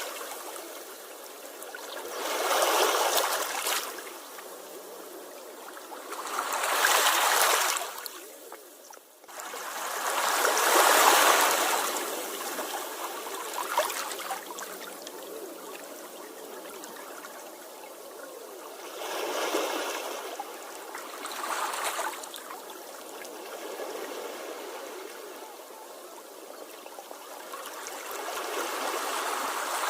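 Sea waves washing onto the shore: a steady hiss of water with a louder surge every few seconds as each wave breaks and runs up, the loudest about eleven seconds in, and another building near the end.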